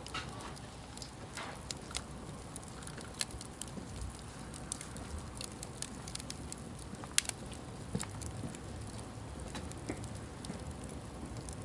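Campfire crackling: wood burning with a steady low hiss and irregular sharp pops and snaps, the loudest about seven seconds in.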